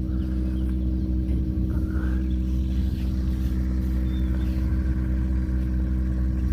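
An engine running steadily at an even speed, a low, constant hum with no change in pitch.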